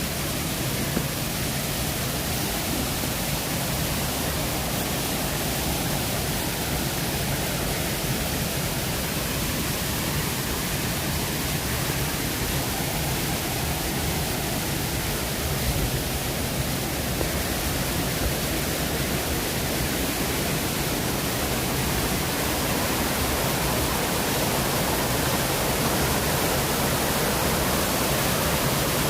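Waterfall: a steady rush of falling water, getting slightly louder near the end.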